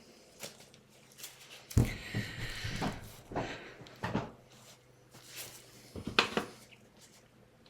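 Handling noise from small nail tools: a few light knocks and clicks as objects are picked up and set down on a hard desk, with brief rustling between them.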